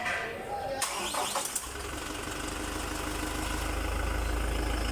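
A vehicle engine started with the key on a freshly installed battery: the starter engages about a second in and the engine turns over, then runs with a steady low hum that slowly grows louder.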